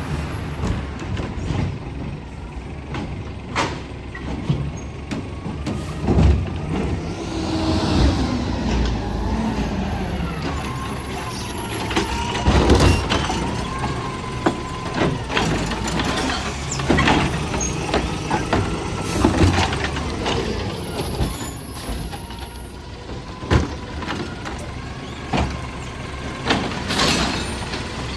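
Garbage truck collecting recycling carts: the engine runs throughout under repeated knocks and bangs, with a wavering mechanical whine in the middle stretch.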